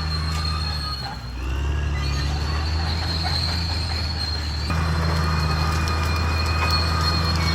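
Caterpillar D6R XL bulldozer's diesel engine running under a steady drone, with a high metallic squeal typical of steel crawler tracks. The engine note dips briefly about a second in, then recovers. About two-thirds of the way through, the sound gets abruptly louder.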